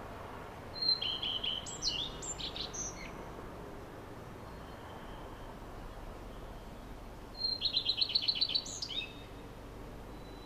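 A songbird singing two short phrases of quick, high chirps, the second a fast run of repeated notes, over a steady background hiss.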